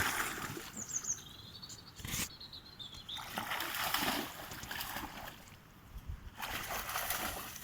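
A dog splashing into and through water after a thrown stick, in several bouts of splashing, with a bird chirping in the first few seconds.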